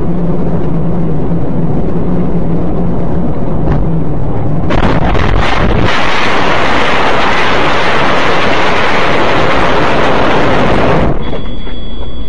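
Vehicle crash: a steady engine and road hum, then about five seconds in several sharp cracks and a loud, harsh noise that lasts some six seconds. Near the end it gives way to a quieter hum with two steady high tones.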